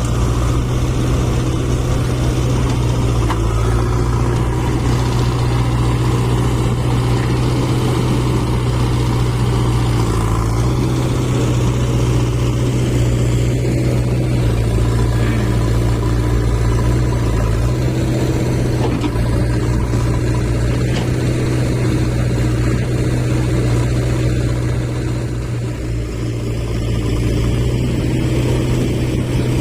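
Eicher 5660 tractor's diesel engine running steadily, a continuous low drone that dips briefly in level near the end.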